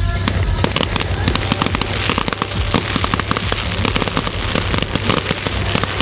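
Fireworks going off in a dense, rapid run of crackling pops and bangs, over a low steady hum.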